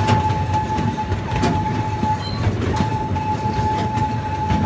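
Zoo ride train rolling along: a steady low rumble of wheels on track, with a few sharp clicks over rail joints. A steady high squeal is held through most of it, with two short breaks.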